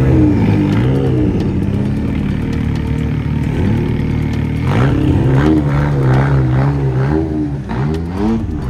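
Tuned engine of an orange Ford Sierra drift car revved hard and held high, its pitch bouncing rapidly up and down, with sharp crackles from the exhaust over the second half.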